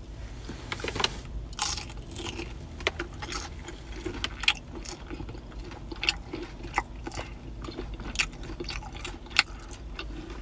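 Close-up mouth sounds of a person biting and chewing a crispy fried cheese stick dipped in sauce: irregular crunches and wet clicks.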